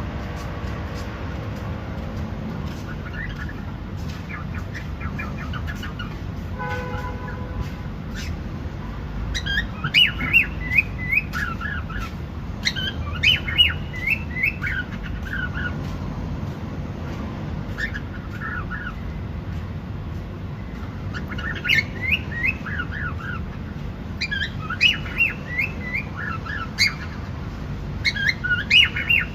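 Cockatiel chirping in bursts of quick, falling chirps, about half a dozen short phrases a few seconds apart, over a steady low background hiss.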